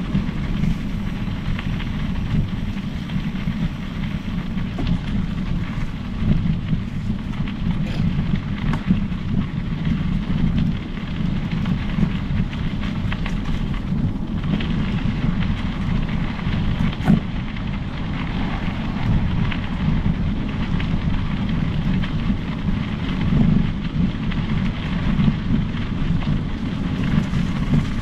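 Wind buffeting the microphone and a steady rolling rumble from a mountain bike moving along a trail, with scattered small clicks and ticks.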